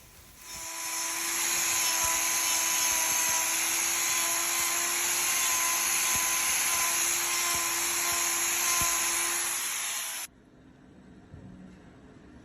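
Power grinder running steadily on hoof horn, cutting away the sole to open access to rocks packed under it. It is a steady high whine with a hiss that runs for about ten seconds and then cuts off suddenly.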